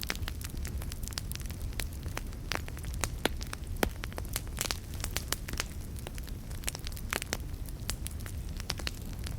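Campfire crackling: irregular sharp pops and snaps of burning wood over a steady low rumble of flames, with a couple of louder pops a little past the middle.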